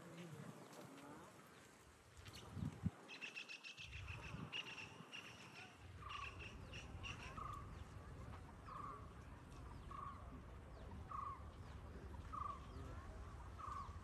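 Faint bird calls: a quick, rapid chattering call for a few seconds, then a single short note repeated about once a second, over a low background rumble.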